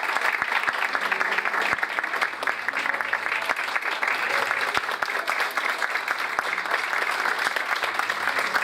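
Live audience applauding steadily, many hands clapping together without a break.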